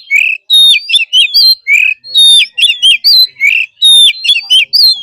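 Oriental magpie-robin singing loudly: a phrase of clear whistled notes that rise and fall, repeated three times, about every second and a half.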